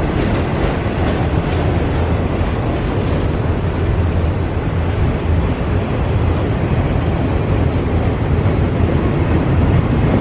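A freight train of empty auto rack cars rolling past at close range: a loud, steady rumble of wheels on rail.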